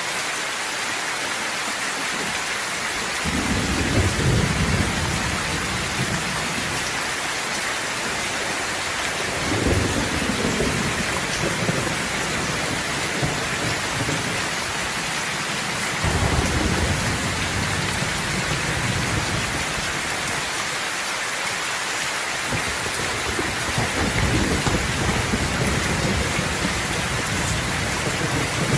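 Steady rain hissing throughout, with deep rolls of thunder rumbling in four times, about every six to seven seconds.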